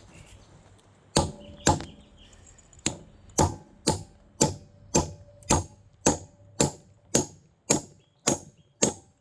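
A steel railroad spike repeatedly striking a large chunk of milky quartz to chip pieces off, giving sharp hard knocks. There are two strikes about a second in, then a steady run of about two a second that stops near the end.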